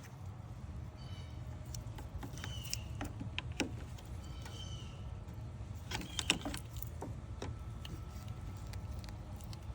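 Scattered clicks and scrapes of hands and tools working the radiator hose and its clamps in the engine bay, heaviest in two clusters about three and six seconds in, over a steady low rumble.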